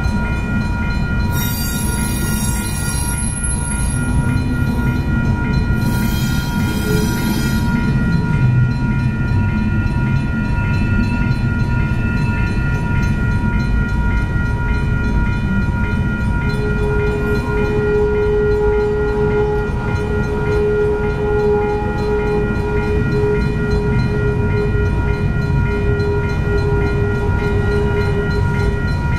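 Freight train cars rolling past a grade crossing with a steady heavy rumble of wheels on rail, while the crossing bell rings on at a high, steady pitch. Two brief high-pitched squeals come in the first several seconds, and a steady lower tone joins in for the second half.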